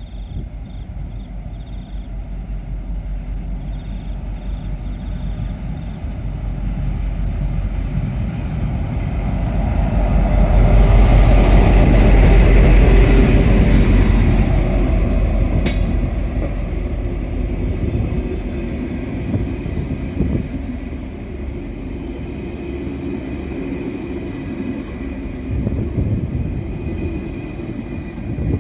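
V/Line N class diesel locomotive hauling a VLocity railcar set past, its rumble building to its loudest about halfway through and then slowly fading as it goes away.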